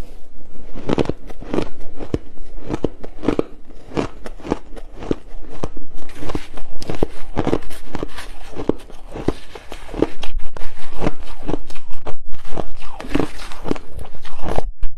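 Ice being bitten and chewed close to the microphone: a steady run of loud crunches, roughly two a second, with crackling between.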